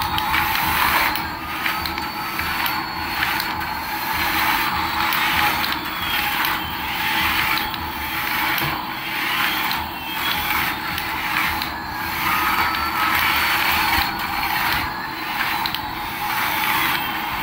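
Small electric motor and plastic gears of a remote-control toy whirring, with a rattling, ratchet-like quality and small rises and falls in pitch.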